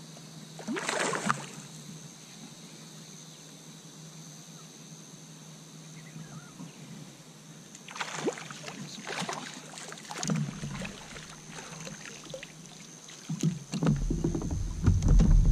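Water sloshing and knocking around a fishing kayak in short bursts, about a second in and again around eight to ten seconds, over a steady high drone. A louder low rumble comes in near the end.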